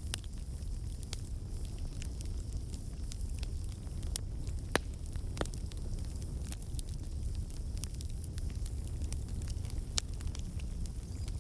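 Wood fire burning in a fireplace: a steady low rumble with scattered sharp crackles and pops, a few louder pops a little under five seconds in, at about five and a half seconds and near the end.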